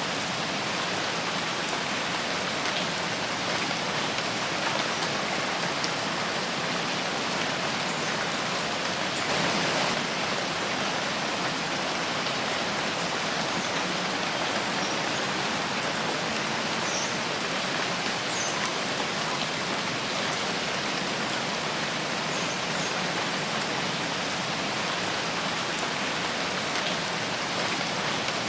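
Steady rain falling in a forest: an even hiss with scattered drop ticks, swelling briefly about nine seconds in.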